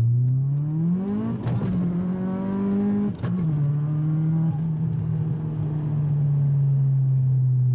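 Turbocharged 1.8-litre four-cylinder engine of a VW Golf IV 4Motion accelerating, heard from inside the cabin. The revs climb for about a second and a half and then hold. Just after three seconds in, the note drops sharply with a brief dip in loudness, as at an upshift, and the engine runs on at a steady lower pitch.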